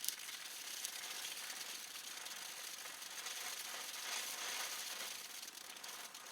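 A small category 1 ground firework burning, spraying sparks with a steady hiss and a fine crackle, with a couple of sharp pops in the first second.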